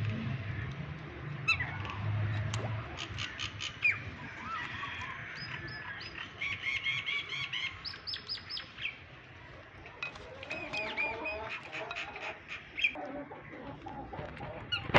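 Parrot chirping and calling in runs of short, quickly repeated notes, in three bursts with pauses between.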